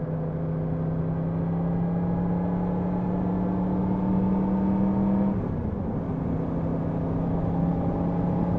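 Yamaha MT-10 SP's crossplane inline-four engine running under way, its pitch creeping slowly upward, then dropping briefly about five seconds in before it holds steady again.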